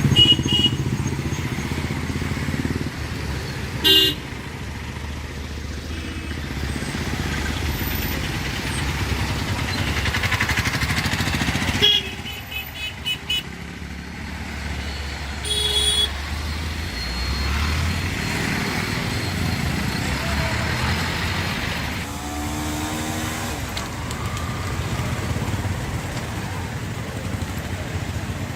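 Road traffic: vehicle engines running steadily, with short horn toots about four seconds in, a cluster around twelve to thirteen seconds, and another around sixteen seconds.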